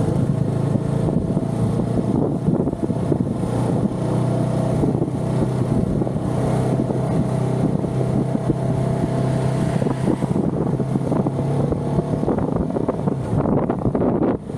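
Motorcycle engine running at a fairly steady speed while riding, with wind noise on the microphone.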